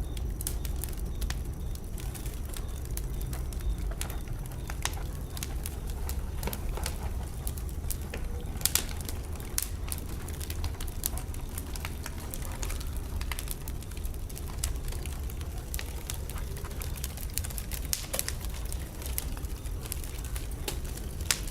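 Wood fire burning in a fireplace: a steady low rumble with scattered sharp crackles and pops, including a couple of louder pops about nine seconds in and near the end.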